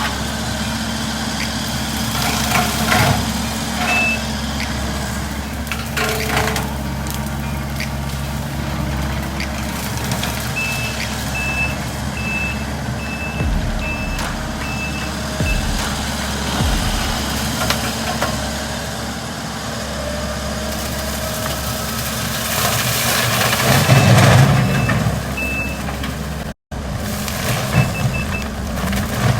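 Skid steer engine running steadily while its reversing alarm beeps in runs of high, evenly spaced beeps about twice a second. The machine grows louder for a couple of seconds about three-quarters of the way through.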